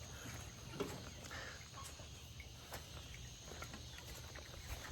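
Faint outdoor farmyard ambience with a steady high insect drone and a few scattered light ticks.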